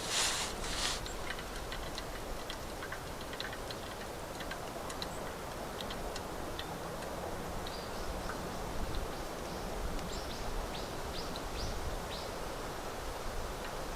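Wood campfire crackling: scattered sharp ticks and pops over a steady outdoor hiss, with a brief rustle right at the start.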